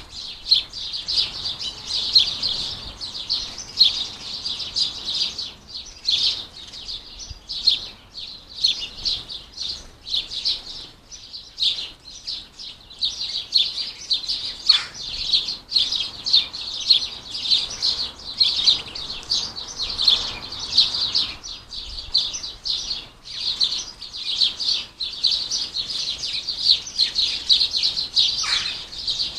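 House sparrows and goldfinches chirping and twittering, a dense run of short high calls, many a second, with no pause.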